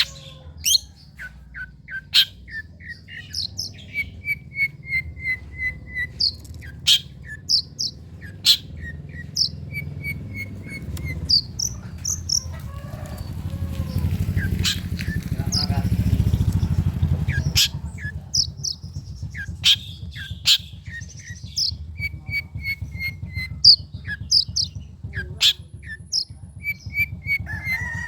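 Long-tailed shrike (cendet) singing: a run of sharp chips and short strings of quick repeated notes, over a low steady rumble that swells for a few seconds in the middle.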